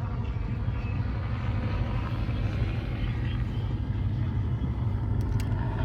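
Steady low rumble of a motor vehicle, a car engine running or a car moving, with no change in pitch.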